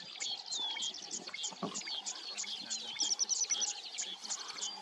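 Birds calling in the grassland: many short, high chirps repeated quickly, with falling whistles and a rapid trill about three seconds in.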